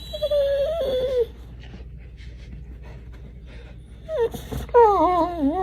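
A dog whining in drawn-out, wavering cries: one lasting about a second at the start, then another beginning near the end and held on.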